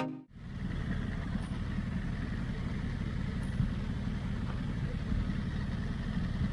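Motorcycle engine running, a steady low rumble, just after a music track cuts off at the very start.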